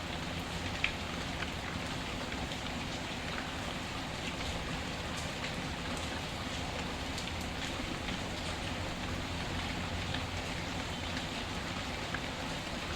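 Steady rain falling, with a few scattered sharp pops from a crackling wood fire, the loudest about a second in.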